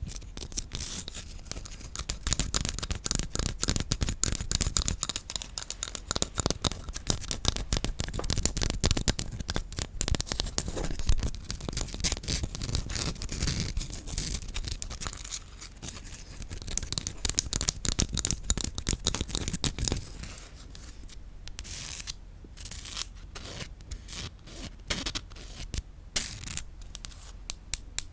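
Rapid tapping and scratching on wooden objects, a dense run of quick clicks over a scratchy rustle. About two-thirds of the way through it thins out into slower, separate sharp taps.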